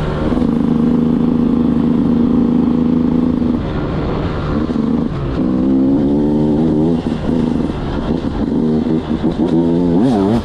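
Beta 200 two-stroke motorcycle's single-cylinder engine running, held at steady revs for about three seconds, then revving up and down several times.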